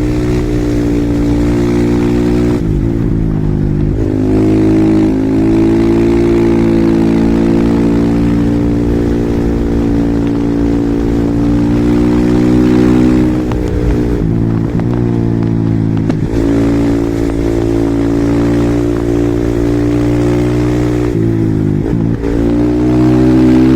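Husqvarna SM 450R supermoto's single-cylinder four-stroke engine pulling hard under throttle, the revs dropping sharply and climbing again at gear changes about three, fourteen and twenty-two seconds in.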